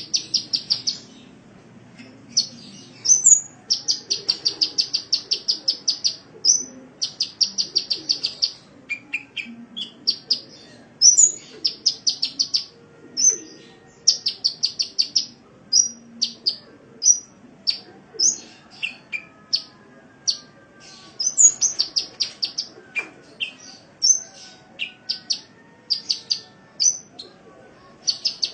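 Sunbird (kolibri) singing: rapid trills of sharp, high notes, about ten a second in runs of a second or two, broken by single chirps and short note groups.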